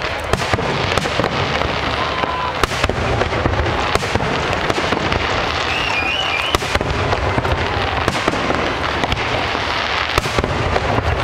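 Fireworks display: many sharp bangs from aerial shells in quick succession over continuous crackling.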